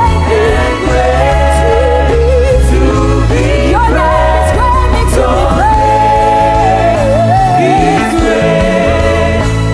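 Live praise-and-worship music: a lead singer holds long, wavering sung notes over a band with a steady, heavy bass.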